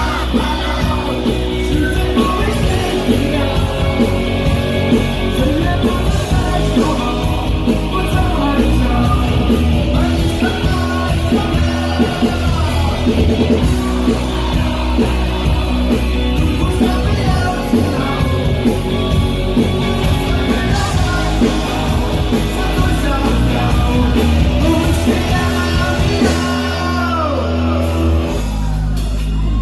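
Rock band playing live, with a lead singer over drums, guitars and a heavy bass, heard from the audience in a club.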